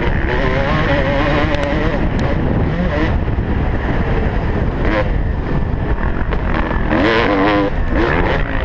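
Motocross bike engine revving hard, its pitch repeatedly rising and dropping with throttle and gear changes, over rough wind and track noise; the rises and falls come quicker near the end.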